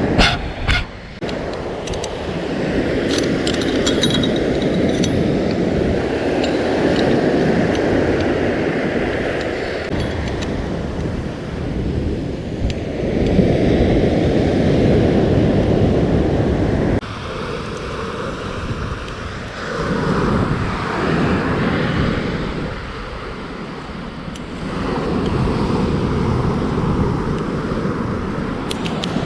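Surf breaking on a beach with wind on the microphone, a steady rushing noise that changes abruptly partway through; a few light clinks of gear in the first few seconds.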